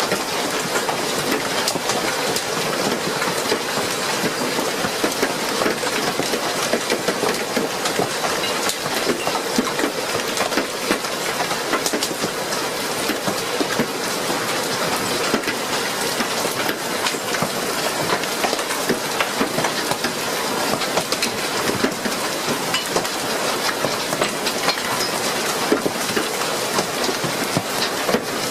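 Hailstorm: hail and heavy rain pelting a hard surface in a dense, steady clatter of rapid impacts.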